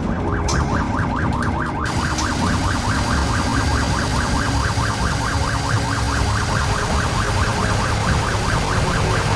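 Electronic fire-truck siren in a fast warble, sweeping up and down several times a second. About two seconds in, a steady loud hiss joins it.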